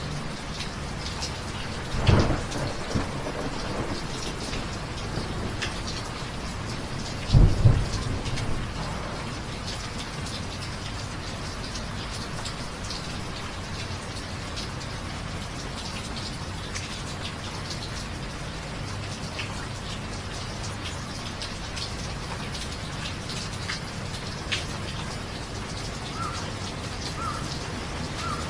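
Steady rain falling, with two sudden claps of thunder, one about two seconds in and a louder one about seven and a half seconds in, each dying away in a short rumble.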